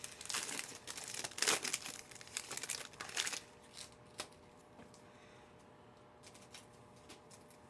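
Foil trading-card pack wrapper being torn open and crinkled, with rustling of the cards, for about three and a half seconds, then a single click and quiet.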